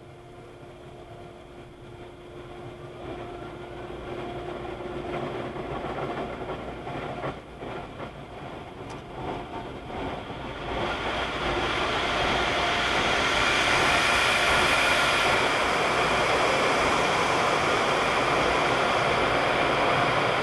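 Automated conveyor car wash machinery running, with a steady motor hum at first. About ten seconds in, a loud, even rushing noise builds up and then holds steady.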